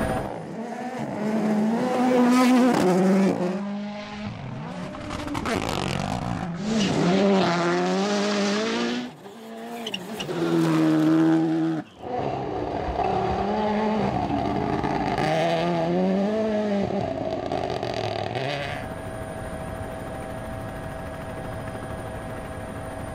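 Rally cars at full speed, their engines revving hard with the pitch climbing and dropping at each gear change and lift. Several passes follow one another, broken by sudden cuts.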